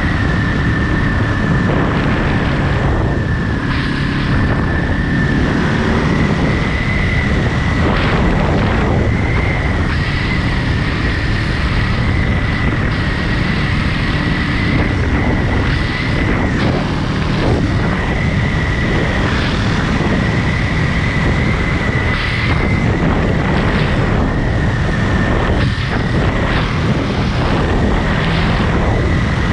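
Ducati Monster 937's L-twin engine running steadily under way, with wind noise on the microphone and a steady high whine.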